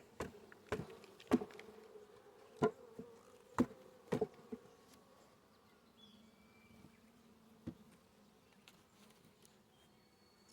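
Honeybees buzzing around an opened hive, a steady hum, with several sharp knocks and clicks in the first half and one more near the end.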